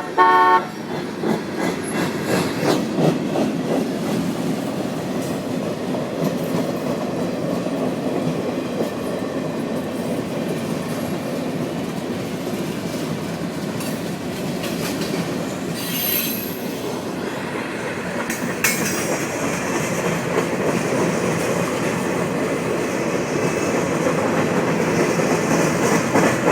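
Norfolk Southern train rolling past a grade crossing: a steady rumble of rail cars with clacking wheels over rail joints, after the locomotive's horn blast cuts off about half a second in. A brief high wheel squeal rises about two-thirds of the way through.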